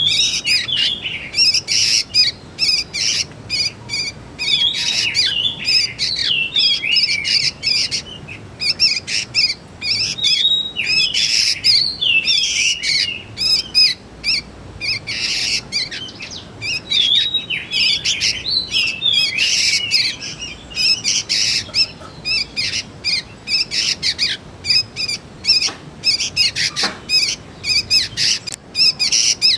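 Young sooty-headed bulbuls calling: a continuous stream of rapid, high chirps and short warbled notes with hardly a pause.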